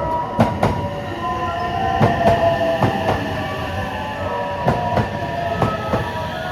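A train rolling past, its wheels clacking over rail joints in quick pairs about once a second, over a steady rumble and a whining tone.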